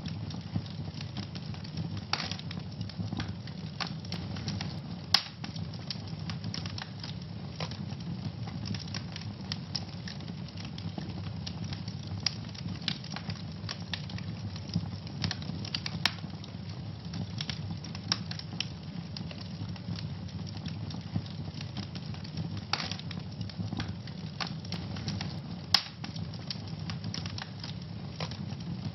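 Fire in a fireplace crackling, with many sharp pops over a steady low rumble. Two pops stand out as the loudest, about five seconds in and near the end.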